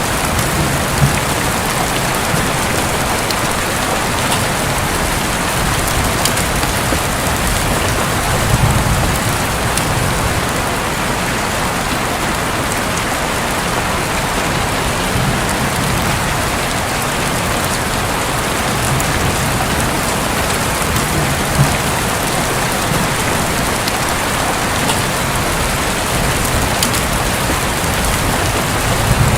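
Steady rain drumming on a roof, thick with individual drop ticks. A low rumble of distant thunder rises and fades a couple of times.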